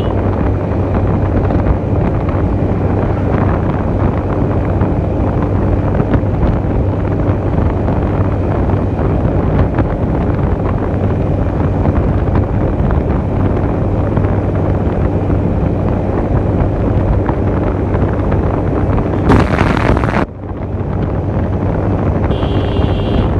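Heavy wind buffeting the microphone on a moving motorcycle, over a steady low engine hum. About 19 seconds in there is a brief louder hiss, and near the end a short high-pitched tone such as a horn.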